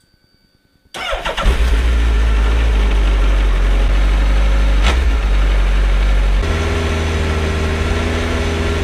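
2008 Suzuki Hayabusa's 1340 cc inline-four on its standard exhaust, starting about a second in and running steadily at idle, its tone changing about six and a half seconds in.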